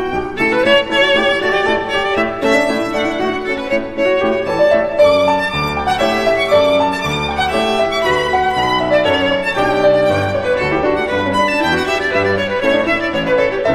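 Background music: a melody on violin over a low accompaniment.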